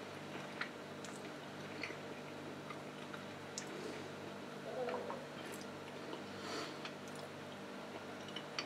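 Faint chewing of a bite of roast chicken, with a few small scattered clicks over a steady low hum.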